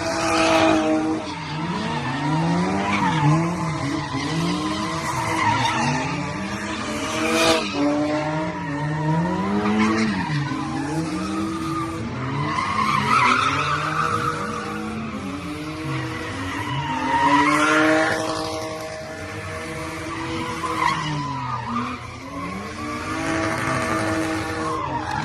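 A car doing donuts, its engine revving up and down over and over while the tires screech and skid.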